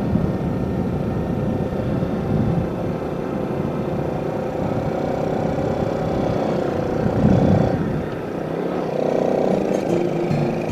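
Yamaha Jupiter Z motorcycle's single-cylinder four-stroke engine running steadily while ridden, under a low, flickering rumble of wind on the microphone. The engine note changes about eight seconds in.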